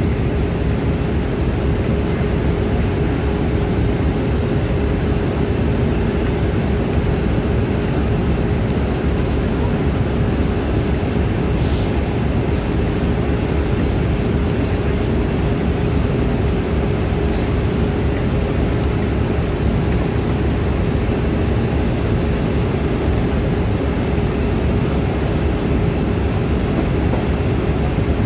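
Steady, loud low rumble of trains with a constant hum, unchanging throughout.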